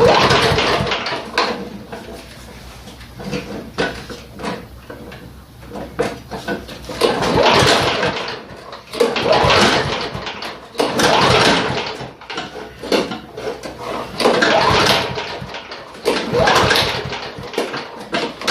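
Repeated pull-cord starting attempts on a Snapper walk-behind mower's Tecumseh engine: a series of short bursts about every two seconds, with no steady running between them, as the engine fails to catch and keep running.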